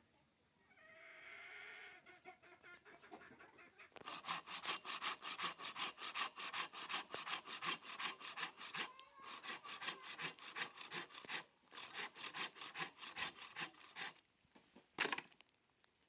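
Fast rhythmic scraping or rubbing strokes, about four a second, stopping briefly a few times and ending with one louder stroke. They follow a short chicken call near the start.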